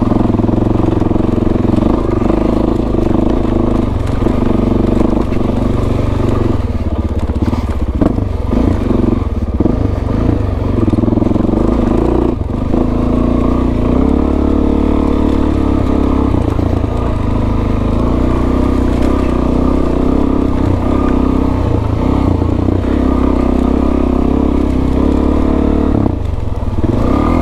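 Suzuki DRZ400S single-cylinder four-stroke engine running under load, its pitch rising and falling with the throttle, with clatter and knocks from the bike working over rough ground.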